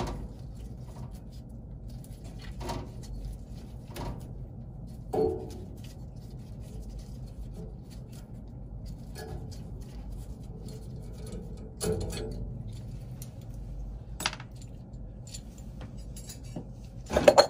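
Hand tools and small metal parts clinking and knocking, a few scattered taps with a louder clatter near the end.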